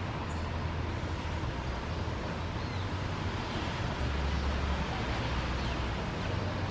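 Wind buffeting the microphone outdoors, a patchy low rumble over a steady hiss, stronger about four seconds in. A few faint high chirps sound now and then.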